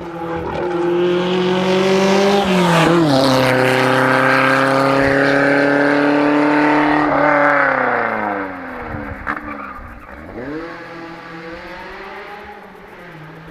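Rally car engine at full throttle passing close by: loud and steady for several seconds, with a sharp drop in pitch about three seconds in, then falling in pitch and level as the car moves away, with another brief dip and rise in engine note near the end.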